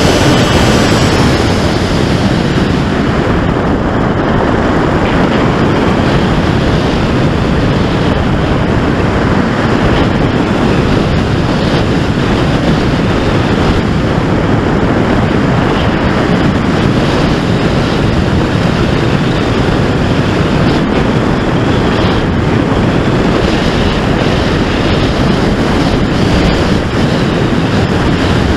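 Air rushing over the onboard camera microphone of a gliding FPV flying wing: a loud, steady roar of wind. The electric motor's whine fades away about a second in.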